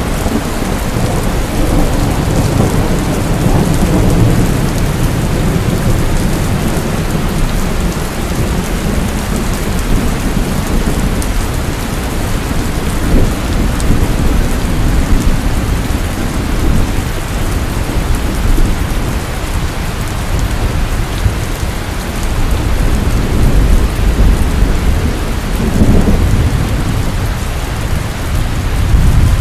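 Heavy rain falling steadily, with low rolling thunder rumbling underneath. The thunder swells in the first few seconds and again near the end.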